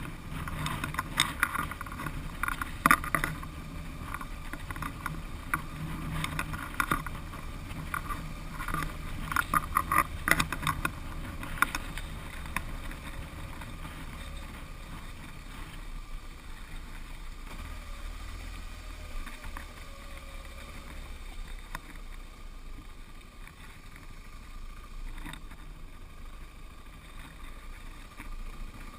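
Single-cylinder adventure motorcycle running at low revs on a rough gravel descent, with a steady low rumble. Bursts of clattering knocks from the bike and loose stones fill roughly the first twelve seconds, then the ride goes smoother and quieter.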